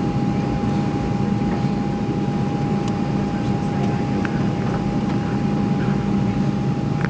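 Airliner cabin noise during landing: the engines and airflow heard from inside the cabin as a steady rush with a constant whine.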